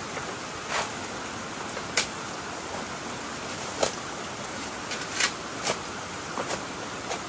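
A steady rushing noise with irregular sharp knocks and clicks, about five clear ones spread over the span.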